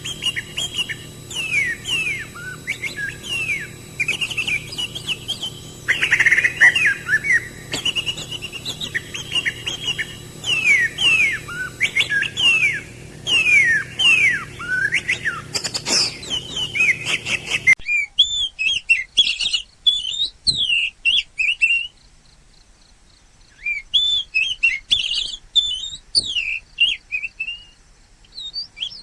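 Small birds chirping: a rapid run of short, falling chirps, repeated over and over. About 18 s in, the low background hum and hiss drops out abruptly, and the chirping carries on more cleanly, with a brief pause a few seconds later.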